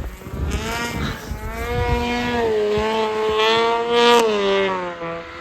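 Snowmobile engine running at high revs, its pitch climbing over the first couple of seconds, holding steady, then easing down a little about four seconds in.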